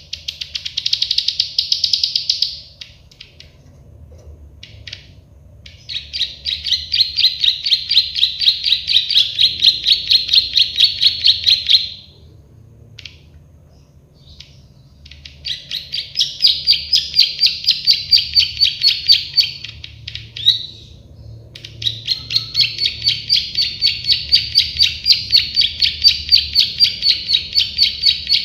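Prenjak sawah (a prinia) singing: long bouts of rapid, high-pitched repeated notes, about four a second, each bout lasting several seconds, with short pauses between bouts.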